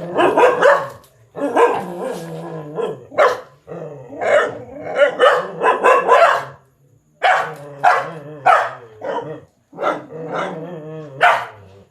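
Dog barking repeatedly in runs of several barks, with a low growl running under and between the barks.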